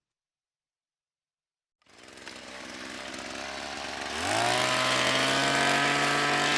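Hedge trimmer starting up about two seconds in and running at low speed, then revving up sharply to a steady high speed a couple of seconds later.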